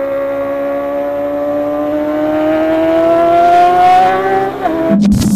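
Kawasaki ZX-25R inline-four engine revving hard at high rpm, its pitch rising steadily for about four and a half seconds, with a brief dip near the end. It cuts off abruptly about five seconds in, giving way to a low hum and clicks.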